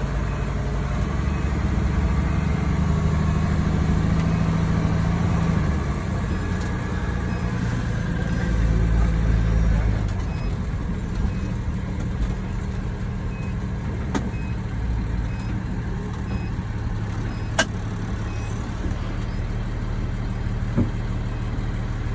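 Fire engine's diesel engine running as the truck drives, heard from inside the cab: a steady low drone that is louder for the first several seconds, with a deeper rumble around nine seconds in and a couple of sharp clicks later.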